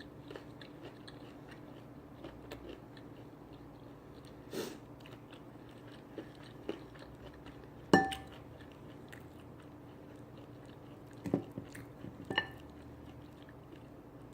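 Close-up chewing and biting sounds of someone eating, with small wet mouth clicks over a faint steady hum. A few sharp ringing clinks, like a plate or cutlery being knocked, stand out; the loudest is about eight seconds in.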